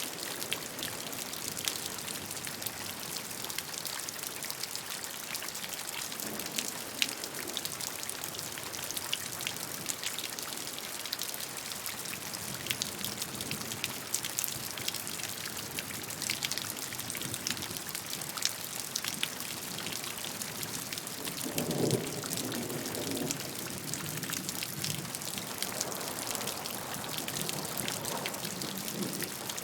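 Steady rain falling and pattering on surfaces, a dense hiss full of small drop hits. A brief deeper swell comes about two-thirds of the way through.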